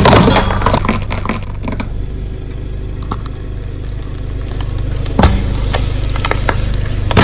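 Car engine running at low speed while a tyre rolls over and crushes objects: a loud crunch at the start, scattered cracks and crackles, a sharper crack about five seconds in and another loud crunch at the end.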